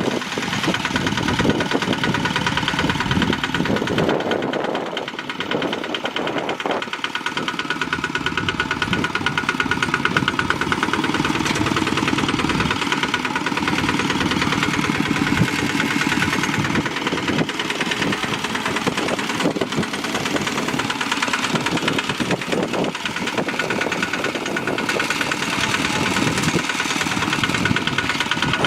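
Bulldozer's diesel engine running steadily as it works, with a fast, even pulse throughout.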